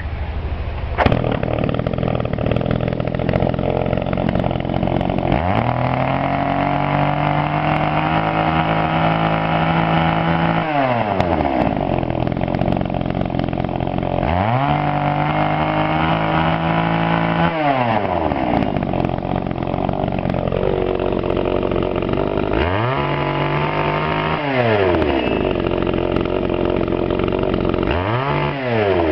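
Tanaka PowerMate PMS-330A two-stroke chainsaw engine idling and being revved four times. Each rev climbs to a high steady whine, holds, and drops back to idle. The first rev lasts about five seconds and the last only about one.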